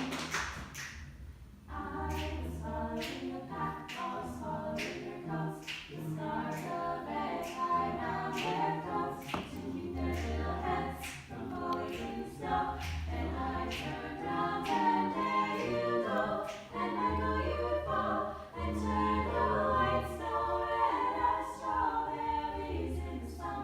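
A choir singing, many voices together in harmony over a low bass line, starting about two seconds in.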